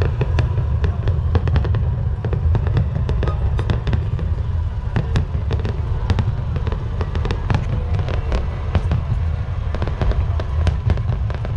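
Fireworks going off in a dense, continuous barrage: many sharp cracks and pops in quick succession over a steady low rumble.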